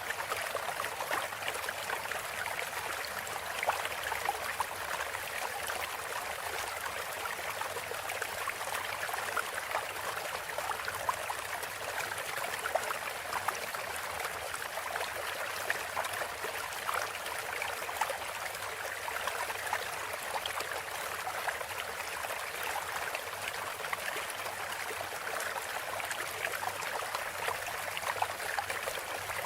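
Running water trickling and babbling, a steady stream sound with small splashes throughout.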